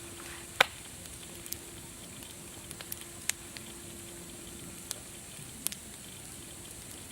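Wood fire crackling: scattered sharp pops, the loudest about half a second in and another near three seconds, over a steady soft hiss.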